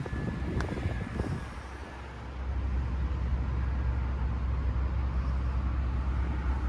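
A sharp click and a brief thin high tone, then a steady low vehicle rumble that sets in about two seconds in.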